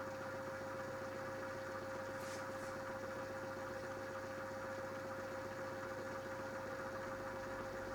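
Mini washing machine running: its motor gives a steady hum with a constant whine. Two brief hisses come a little past two seconds in.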